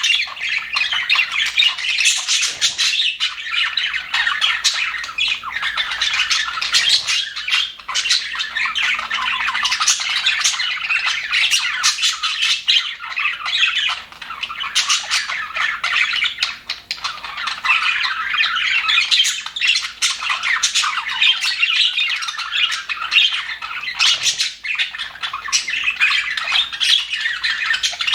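A flock of budgerigars chattering, chirping, warbling and squawking together without a break, many birds at once.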